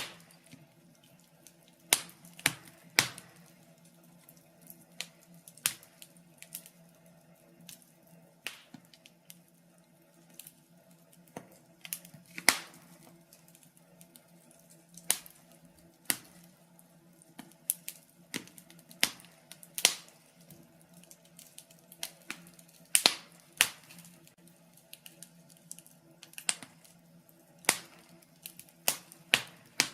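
Logs burning in a fireplace, crackling with irregular sharp pops and snaps, over a faint steady low hum.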